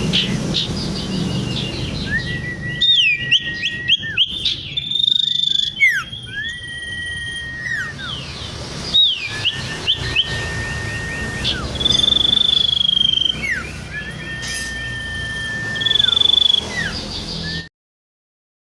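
Common iora singing: a quick run of short chirps, then long drawn-out level whistles alternating between a lower and a higher pitch, each ending in a short swooping note. The sound cuts off abruptly near the end.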